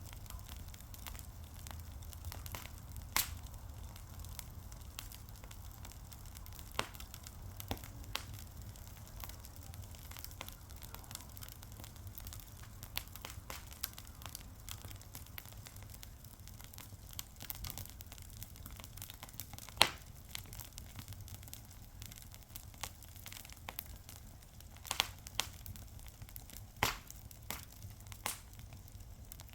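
Wood fire crackling, with a steady low rumble and irregular sharp pops, a few louder snaps standing out.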